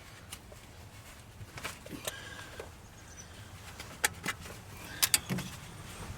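A scattering of short, sharp clicks and light knocks, the loudest about four and five seconds in, over a faint low hum.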